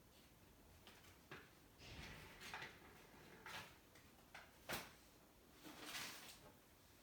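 Knife being sharpened: a few faint, irregular scraping strokes of the blade, with one sharp click about halfway through.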